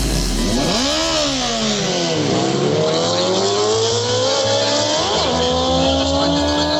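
Motorcycle engine revving up and dropping back, then climbing slowly in pitch under load, with a quick throttle blip about five seconds in.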